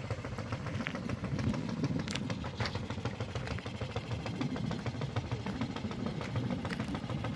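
A small petrol engine running steadily at low revs, with a few light clicks over it.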